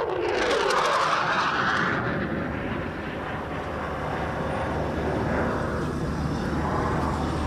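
Aircraft flying past, loudest in the first two seconds and then settling into a steady engine rush.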